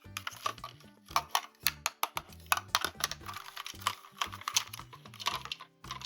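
Rapid, irregular clicks and taps of hard plastic toy pieces being handled, over background music.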